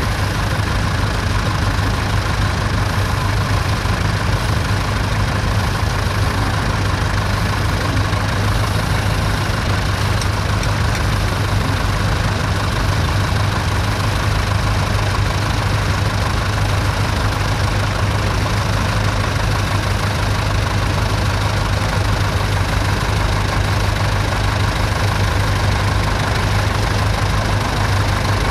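Vintage tractor engine running steadily with a constant low hum.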